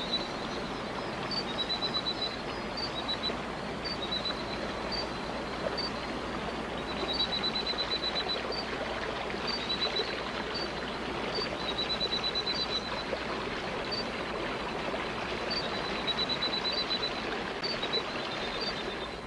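Steady trickling of a rainforest stream, with a small frog calling over it in high-pitched pips: single pips about once a second and several quick runs of rapid pips.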